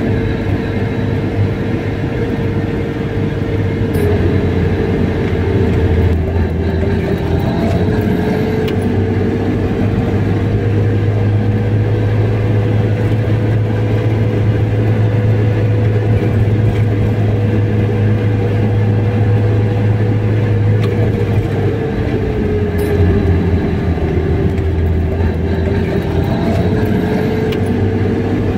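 Car driving steadily along a road: engine and road noise with a steady whine that dips in pitch about six seconds in and again near the end.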